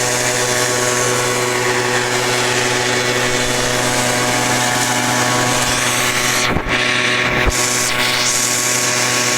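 Small gasoline engine running steadily at a constant speed, with a couple of brief low thumps about two-thirds of the way through.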